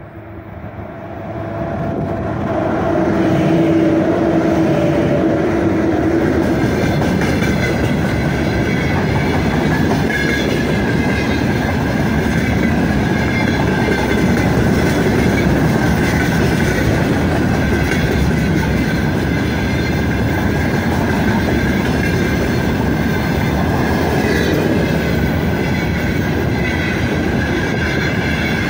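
A freight train passing close by. The 3ES5K electric locomotive comes up and goes past over the first few seconds with a humming tone, then a long string of loaded open freight wagons rolls by with a steady, loud rumble of wheels on rail and a high wheel tone.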